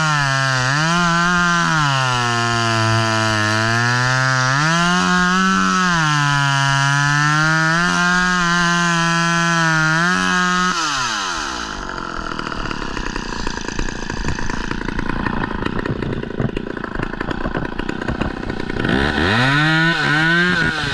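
Two-stroke chainsaw running at high revs, its engine pitch rising and falling. About eleven seconds in, the steady pitch drops away into a rough, uneven sound, and near the end it revs up again.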